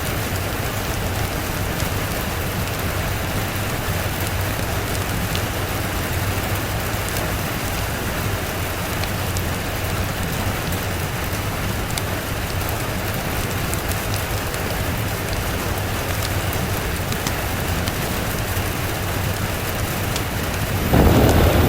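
Steady rain falling on a surface. A low roll of thunder breaks in suddenly near the end.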